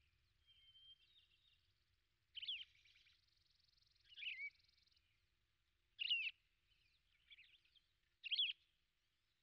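Birds calling: four short chirps with sliding pitch, about two seconds apart, with fainter twittering between them.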